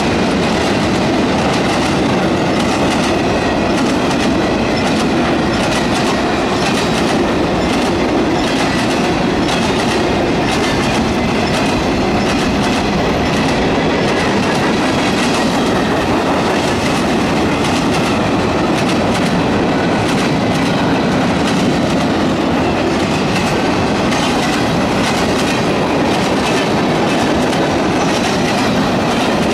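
Freight cars of a CSX mixed freight train rolling steadily past at a grade crossing, their steel wheels clacking over the rail joints.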